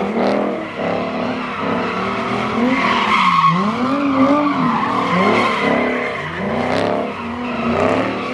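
Car engines revving up and down in repeated waves, with tires squealing against the pavement.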